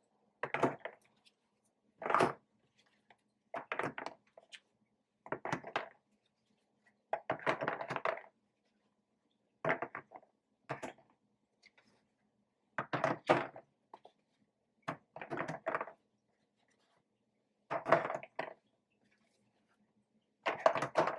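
Bottles, jars and containers from a fridge door being set down one after another: about a dozen separate knocks and clatters, with a faint steady low hum underneath.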